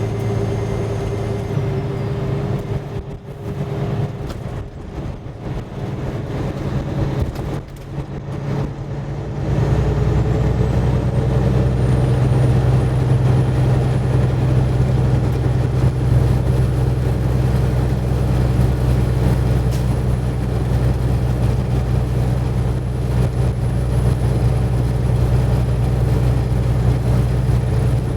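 Semi-truck diesel engine running, getting louder and heavier about a third of the way in and then holding steady, with a faint high whine rising slowly as it does.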